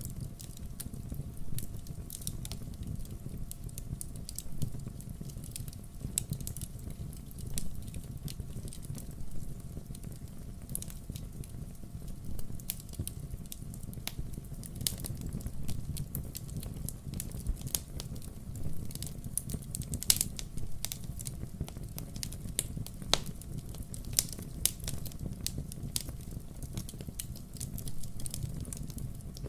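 Wood fire crackling, with irregular sharp pops over a low steady rumble of burning logs; a few pops stand out louder.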